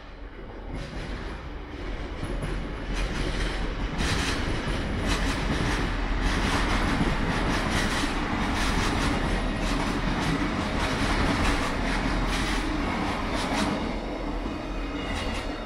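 Passenger train running on rails close by, growing louder over the first few seconds and then holding at a steady rumble with repeated wheel clicks over the rail joints.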